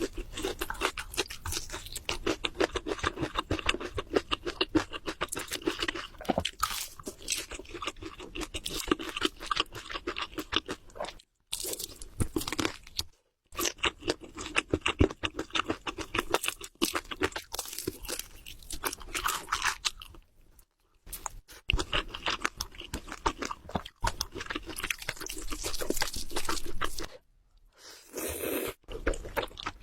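Close-miked eating: rapid, dense crunching and chewing of food in the mouth, broken by a few brief pauses.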